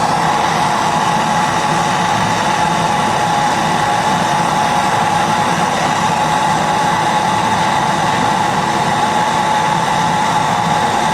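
Refrigerator compressor running steadily during a pumping test on its discharge line: a constant hum with a steady whine held on one pitch.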